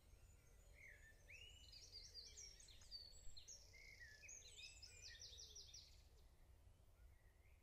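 Faint songbird song: a quick run of high chirps and fast repeated trilled notes from about a second in until about six seconds in, over a low, steady background rumble.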